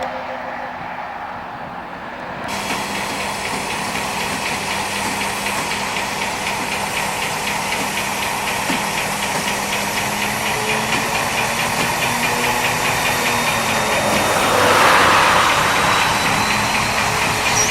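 V100 diesel-hydraulic locomotive's diesel engine running steadily, a hum with fixed tones, growing slowly louder. A burst of hiss comes about fifteen seconds in.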